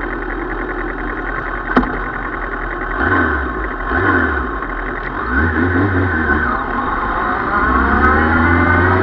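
Suzuki Bandit 650 motorcycle's inline-four engine idling, then revved in short blips about three and four seconds in and again around five to six seconds. Near the end it rises steadily in pitch as the bike accelerates. A single sharp click comes about two seconds in.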